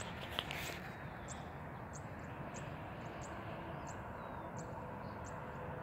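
Quiet outdoor ambience: a bird repeats a short, high chirp about every two-thirds of a second over a steady low background hiss. A few faint knocks come in the first second.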